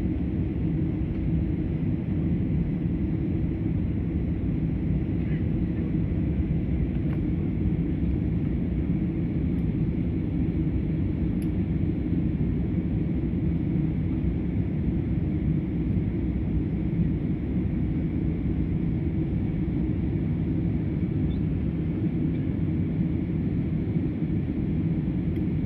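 Steady low rumble inside a jet airliner's cabin during takeoff: engine and airflow noise at an even level.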